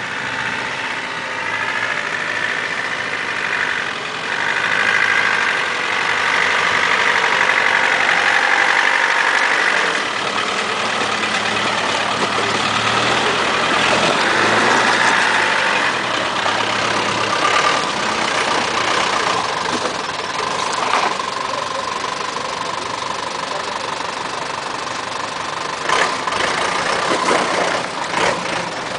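Off-road 4x4 engines running under load as the vehicles crawl up a muddy track, loudest as one passes close about halfway through. A few sharp knocks near the end.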